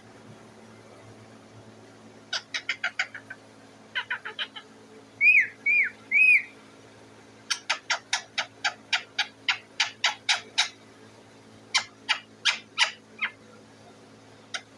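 Parrot calling in bursts of rapid, sharp chattering notes. About five seconds in it gives three loud arched whistles, then goes back to longer runs of quick chatter.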